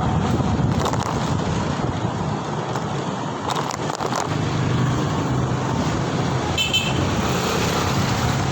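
Road traffic and rushing noise heard while riding a motorbike in city traffic, with a short high-pitched horn beep about two-thirds of the way through.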